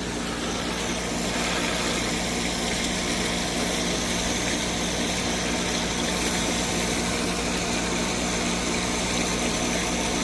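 Pool filter pump running with its valve set to rinse, the stage after a backwash: a steady motor hum with water flowing through.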